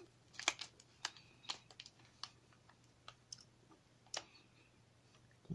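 A person chewing a chocolate, peanut and salted caramel snack cup with the mouth closed, making irregular sharp crunching clicks, about a dozen in all.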